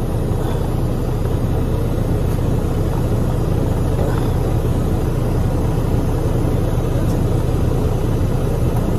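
Detroit DD13 diesel engine of a 2014 Freightliner Cascadia idling steadily.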